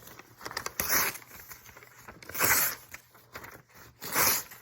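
Paper being torn by hand in three short rips, about a second and a half apart.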